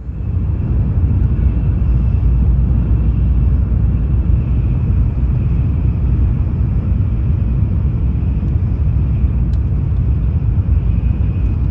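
Shinkansen bullet train running at speed, heard inside the passenger car as a loud, steady low rumble with a faint hiss over it.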